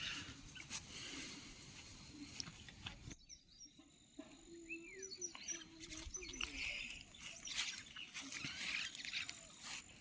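Outdoor rural ambience: a faint steady hiss with scattered clicks, then faint short bird chirps and a weak animal call. The hiss drops away abruptly about three seconds in.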